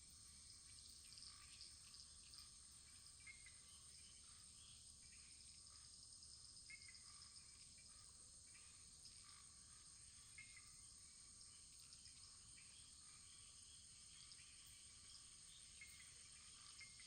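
Faint wood fire burning in a fireplace: a steady soft hiss with small scattered crackles.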